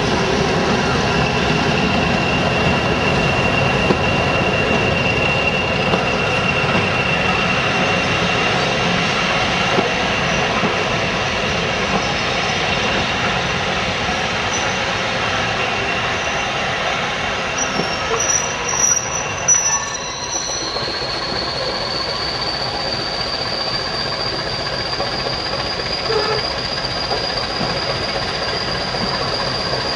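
Diesel-hauled rake of passenger coaches rolling past on a curve, wheels and rails running steadily with a high wheel-flange squeal. The squeal holds one pitch for the first half, then another squeal starts about two-thirds of the way through and slowly rises in pitch.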